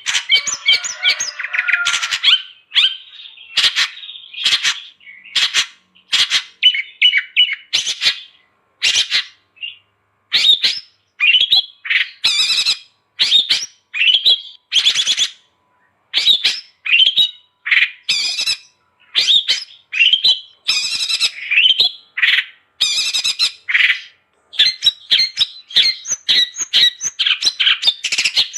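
Long-tailed shrike (cendet) singing energetically: a rapid, varied chatter of short harsh notes and whistled phrases, broken by brief pauses.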